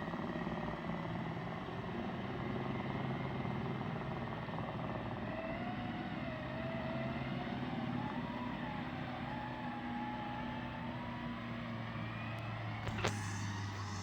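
Off-road vehicle engine running steadily, with a faint wavering whine above it and one sharp knock near the end.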